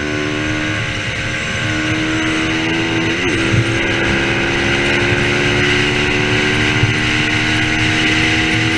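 Racing motorcycle engines held at high, steady revs, several engine notes overlapping, with a brief wobble in pitch about three seconds in.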